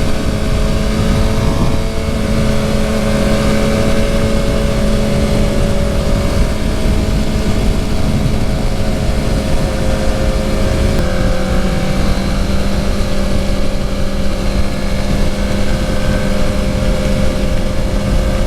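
Suzuki GSX-R750 inline-four engine running at steady cruising revs under heavy wind noise; the engine note shifts slightly about eleven seconds in.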